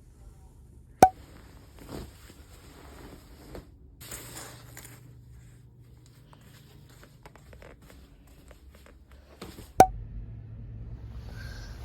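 Two sharp clicks about nine seconds apart, with soft rustling and handling noise between them over a low hum.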